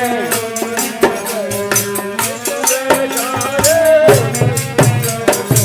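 Dehati bhajan music: hand drum and rattling percussion keep a steady beat under a bending melodic line, between sung verses.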